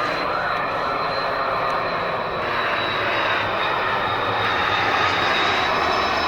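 Jet airliner engines running: a steady rush of noise with a thin, high steady whine, growing slightly louder past the midpoint.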